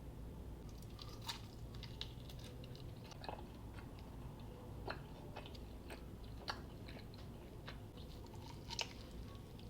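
Chewing and biting into crispy fried chicken wings: irregular crunches and mouth clicks, a few louder than the rest, over a low steady hum.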